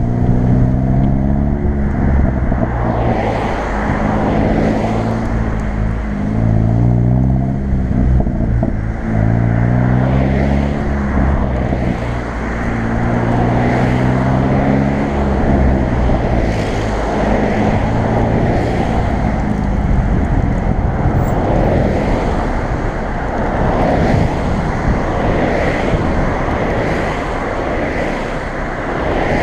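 Hyundai i30 N's turbocharged 2.0-litre four-cylinder engine and sport exhaust under hard acceleration. The engine note climbs in pitch and drops back at each gear change, about five times. It then eases off into a steady road and wind noise with scattered short cracks from the exhaust.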